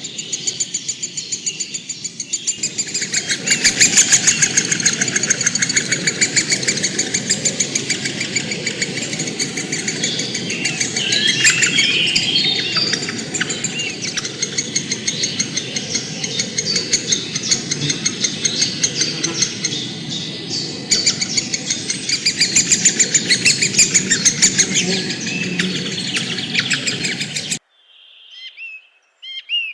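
A dense chorus of many birds chirping and chattering rapidly over a low rushing noise. It cuts off suddenly near the end, leaving a single bird's short whistled notes.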